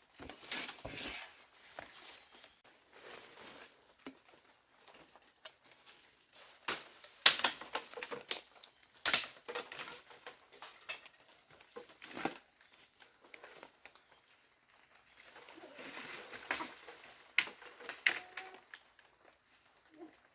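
Irregular clatter and rustling from things being handled: sharp knocks and clicks in scattered clusters, with quiet gaps between.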